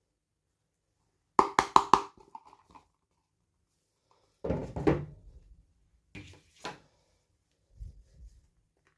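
Plastic toy pieces and packaging being handled: a quick run of four sharp clicks about a second and a half in, a louder knock with a rustle near the middle, then two lighter clicks and a few soft thuds.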